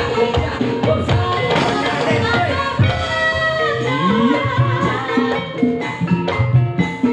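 Live dangdut kreasi music over a sound system: a melody over a steady drum beat, with a sung or played line sliding up about four seconds in.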